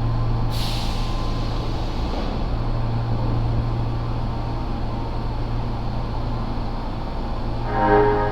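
Osaka Metro 10 series subway train standing at the platform with a steady low hum, a sharp hiss of compressed air about half a second in, and near the end a few short ringing tones followed by another air hiss.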